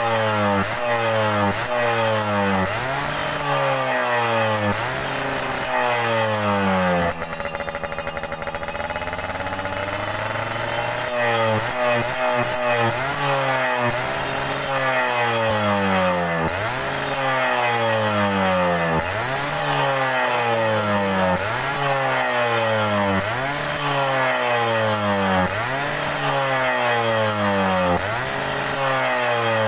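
Yamaha Alfa two-stroke motorcycle engine running through an aftermarket racing exhaust and being revved again and again. Each blip rises and falls in pitch, about one every second or so. It settles to a lower, steady idle for a few seconds about seven seconds in, then the revving resumes.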